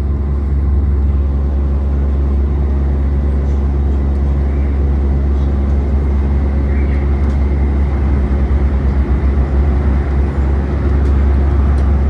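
Tokyo Monorail car heard from inside the cabin: a steady, loud low rumble and hum, with a few faint steady tones above it.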